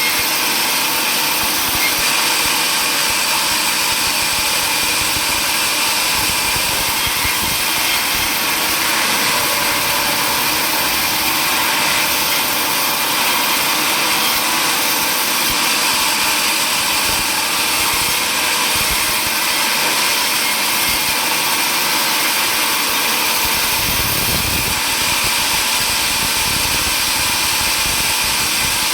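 Sawmill machinery running steadily and loudly, a constant mechanical noise, with a deeper rumble joining near the end.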